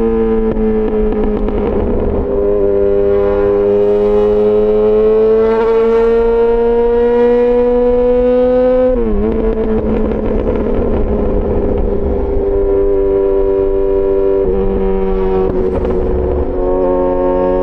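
Yamaha XJ6 S inline-four motorcycle engine through an SC-Project exhaust, running at steady high revs with the note slowly rising. About nine seconds in the pitch drops sharply and picks up again, then holds lower and steady.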